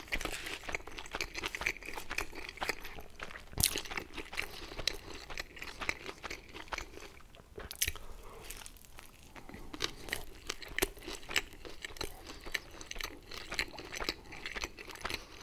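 Close-miked chewing of pizza, crust crunching and crackling between the teeth, with a few sharper crunches of bites standing out.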